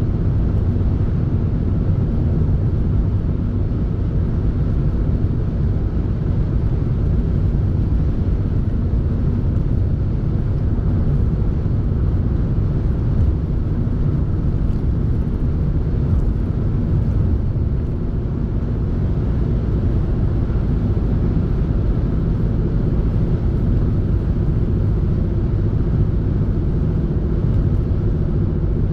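Steady low rumble of a running motor vehicle, with a faint engine hum and no change in pace.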